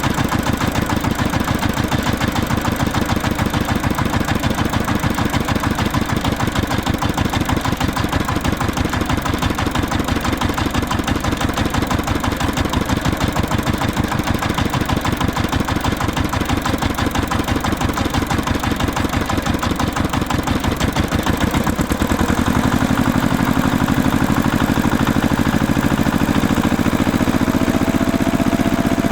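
An engine running steadily with a rapid, even chugging. About two-thirds of the way through the sound smooths out, and near the end its pitch rises as the engine speeds up.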